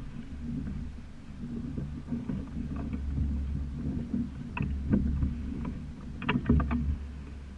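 Sailing dinghy under way: a steady low rush of water and wind, broken by a few sharp knocks and rattles about halfway through and again near the end.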